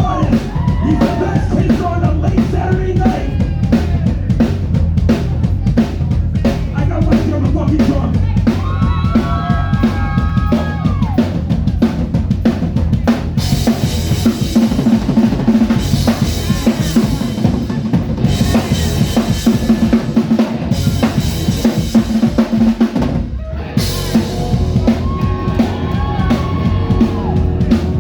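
Live rock band playing, led by a full drum kit with kick and snare, with cymbals crashing in about halfway through.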